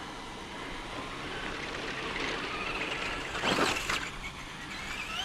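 Electric RC crawler truck driving along a road: a steady rushing noise with a motor whine that rises and falls, and a brief loud burst of noise about three and a half seconds in.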